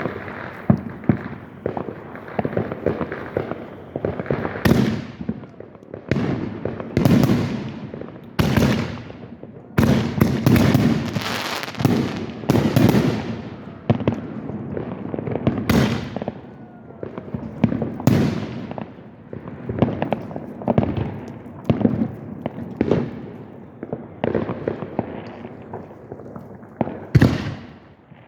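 Fireworks going off in a dense, overlapping string of bangs and booms, several a second, with the loudest blasts about 5, 7, 10, 12, 16 and 27 seconds in.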